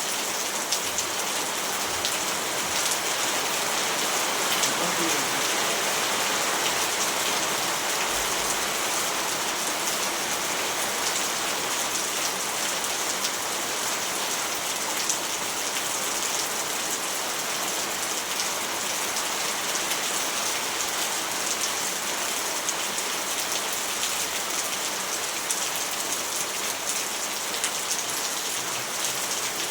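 Steady rain falling and pattering on surfaces, an even hiss of drops with no thunder.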